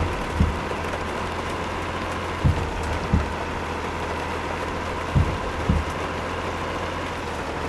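Truck on the move, heard from inside the cab: steady engine and road noise with a low hum. Pairs of short low thumps come about half a second apart and repeat every two to three seconds.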